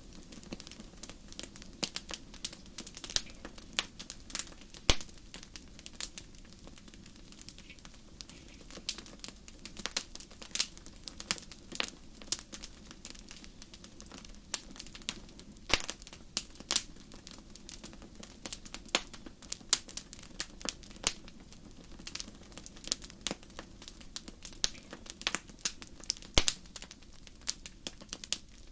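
Fire crackling in a fireplace: irregular sharp pops and snaps, several a second, over a soft steady low noise.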